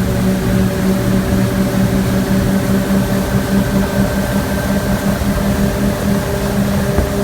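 Motorboat engine running at a steady pitch while under way, its even hum over a constant rushing noise.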